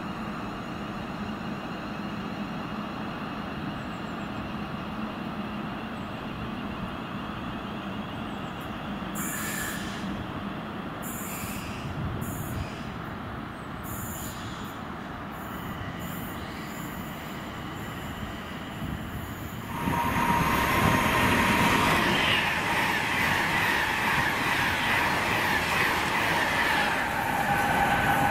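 A train running on the line, with a steady rumble and a few short high clicks. About twenty seconds in it becomes markedly louder, and a thin steady high tone rides over the noise.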